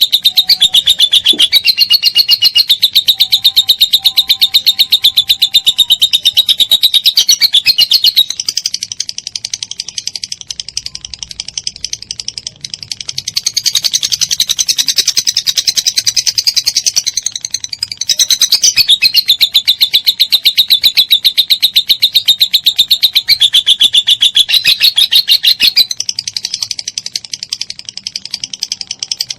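Lovebird giving a long, unbroken ngekek: a loud, very rapid high-pitched chattering trill that runs on without pause, easing into looser, quieter chatter twice before picking up again.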